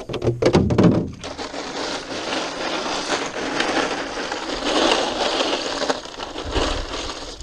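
Close, loud crackling and crunching handling noise, opening with a quick run of sharp clicks and then running on as a dense, rough rustle.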